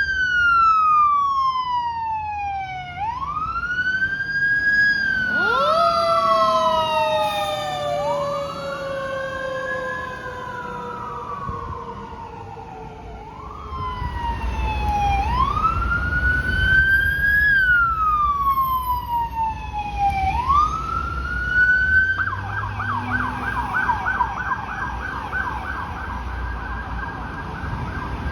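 Emergency vehicle sirens on the wail setting, each cycle rising quickly and falling slowly over a few seconds. A second, lower siren tone falls slowly alongside for a while. A heavy vehicle's engine rumble grows about halfway through, and at about three-quarters of the way the siren switches to a rapid yelp.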